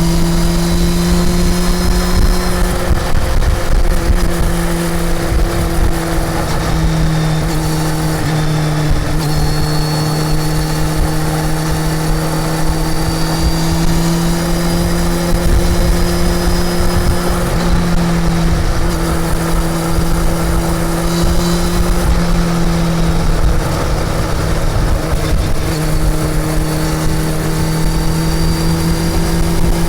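Honda CB400 Super Four's inline-four engine running at steady cruising revs while riding, its note easing and dipping briefly several times, under a constant rush of wind noise.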